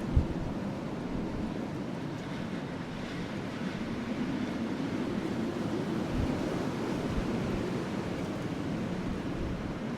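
Steady wind blowing over a burning wood fire, a continuous rushing noise with a brief low thump just after the start and another about six seconds in.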